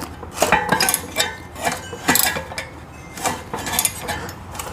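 Wrench on an engine's crankshaft bolt, turned by hand, with irregular metallic clinks and knocks about twice a second as the engine is rotated over. The engine turns freely: it is not seized.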